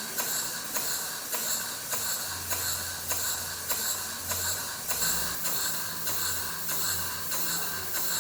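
Model Vulcan beam engine running: a steady hiss with regular exhaust beats about twice a second.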